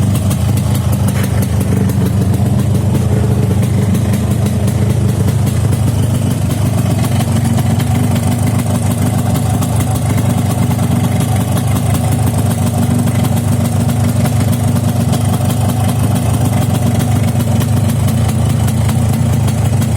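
Yamaha RX-King's single-cylinder two-stroke engine running steadily at idle, with a rough sound that is given as the sign of a piston-ring problem.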